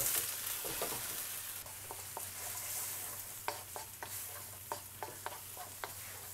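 Sliced onions, chillies and paprika sizzling in hot oil in a wok, with a steady hiss, while a wooden spoon stirs them and clicks against the metal pan several times from about two seconds in.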